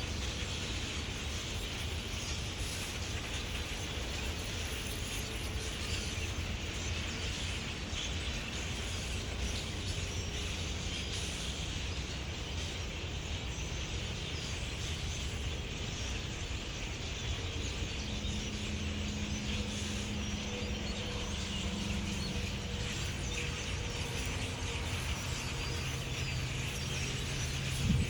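A large flock of blackbirds calling all at once: a dense, steady chatter of many overlapping chirps and squeaks, over a low rumble. A faint low hum comes in about two-thirds of the way through.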